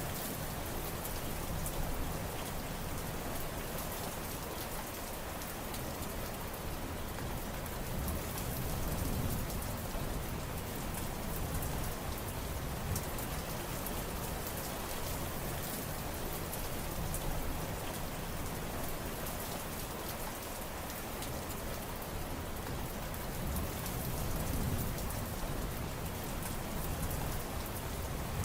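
Steady heavy rain, a dense hiss of drops pattering on surfaces, with slow swells in intensity every several seconds.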